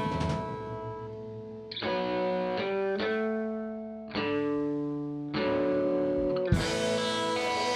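Live band music led by guitar: held chords, each ringing out and fading before the next change, about every second or so, with a low thud about six and a half seconds in.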